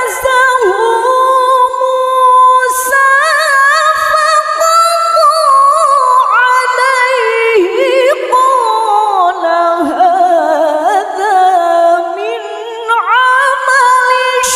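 A woman's voice chanting the Quran in the melodic, ornamented style of competition tilawah. She draws out a long phrase with wavering runs of notes, falling lower in pitch around the middle and climbing again after a brief pause near the end.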